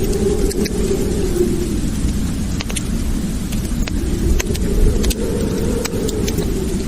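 Wood fire burning in a fireplace: a steady low roar of flames with scattered sharp crackles and pops.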